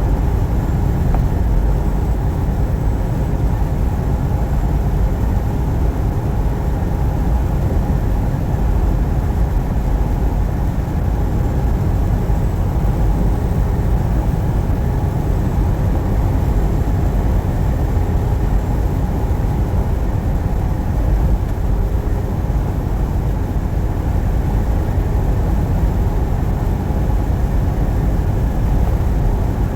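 Truck driving on the road: a steady, even rumble of engine and road noise that does not change.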